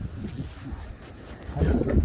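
Wind buffeting the microphone as a low rumble, with faint indistinct sounds rising in the last half second.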